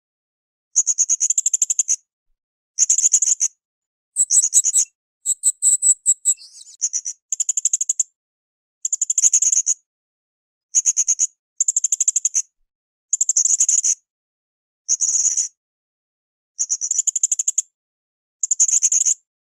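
Blue-crowned hanging parrot (srindit) calling in short bursts of rapid, very high-pitched trills, about a dozen of them, each under a second long and repeated every second or two. A longer, more varied phrase comes about four to seven seconds in.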